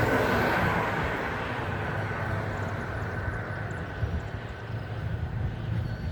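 A motor vehicle passing and fading away, over a steady low rumble of outdoor traffic noise.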